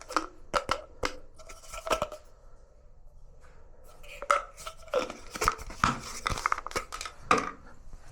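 Irregular clicks, knocks and clatter of metal parts and tools being handled, a dozen or so sharp strikes spread through the moment.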